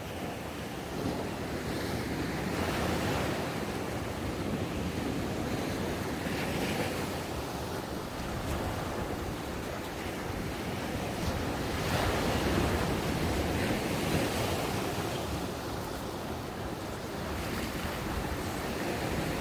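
Ocean waves breaking on a beach, a continuous wash of surf that swells and eases, loudest about two and twelve seconds in, with wind buffeting the microphone.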